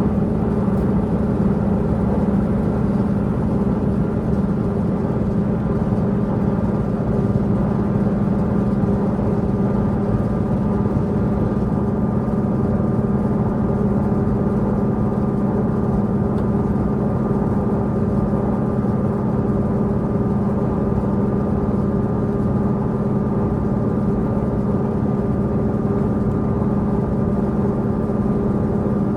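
Underfloor diesel engine of a Tze-Chiang express diesel multiple unit running with a steady hum, heard from inside the passenger car over the low rumble of the train on the rails.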